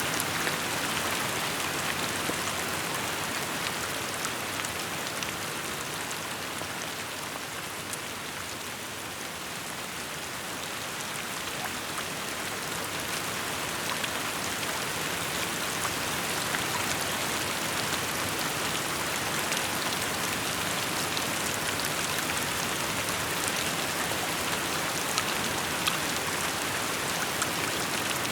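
Steady rainfall pattering on surfaces, with scattered individual drop ticks. It eases slightly for a few seconds near the first third and then picks back up.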